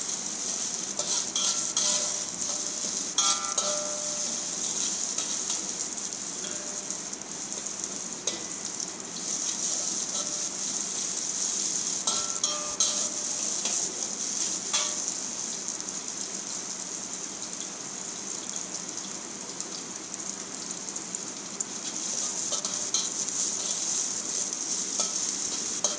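Sliced red onion and garlic sizzling in hot oil in a steel wok as they are sautéed until wilted. A metal spatula stirs them, scraping and clinking against the pan now and then.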